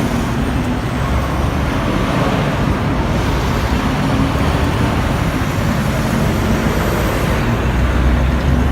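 Car engine running with its exhaust straight-piped, making a loud, steady low rumble.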